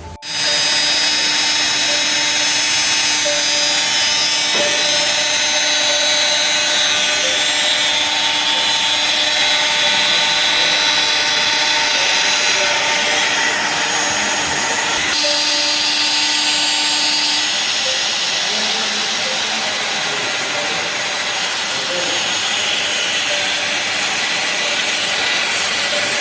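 High-speed spindles of a CNC drilling and milling machine cutting a window profile: a loud, steady whine over the hiss of cutting. It starts abruptly, and the tones change about two-thirds of the way through as the cut moves on.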